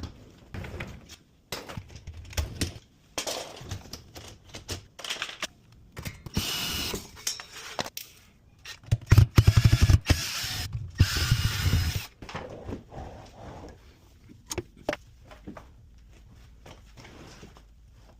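Repair work on a dishwasher: scattered clicks and knocks of parts and tools being handled, with a power driver running in two short bursts about halfway through.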